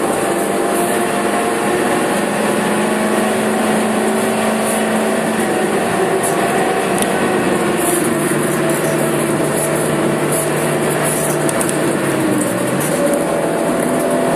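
Suzuki Swift Sport's four-cylinder engine running hard at speed, heard inside the stripped, roll-caged cabin over tyre and road noise. The revs hold steady, then the pitch drops a little about eight seconds in.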